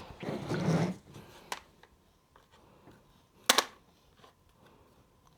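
Small handling sounds from a fencing reel's spring and housing being worked with a knife: a brief scrape, a light click, then a sharp click about three and a half seconds in.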